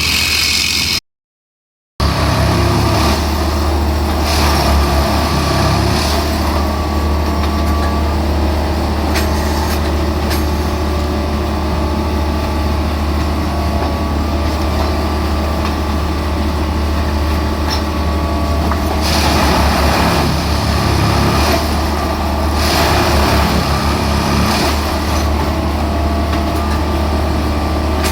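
Heavy diesel engine of a Plasser & Theurer track-lifting machine running steadily under load, with a strong low hum. The sound drops out for about a second near the start, and louder noisy surges come twice in the second half.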